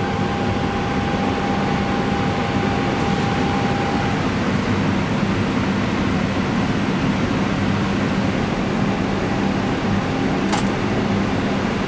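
Steady rushing hum inside an Airbus A319 cockpit with the auxiliary power unit running at full speed and the air and cooling fans going. A faint steady tone fades out about four seconds in, and a single sharp click comes near the end.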